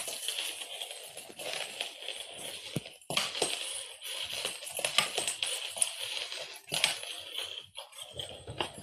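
Cat toy rattling and jingling as cats bat it about, with many quick clicks and small knocks.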